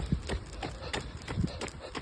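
Running footsteps: a quick, even rhythm of footfalls, about four a second.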